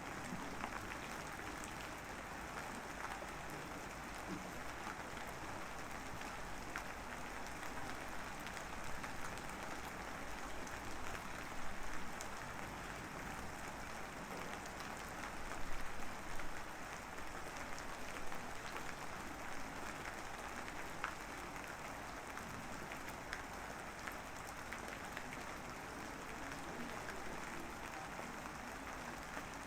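Steady rain falling: an even hiss of drops, swelling slightly a couple of times midway.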